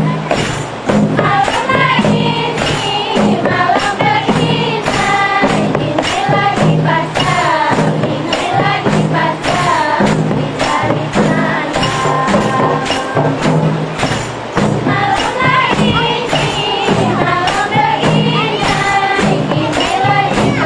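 A rebana group performing: hand-struck frame drums beat a steady rhythm under group singing.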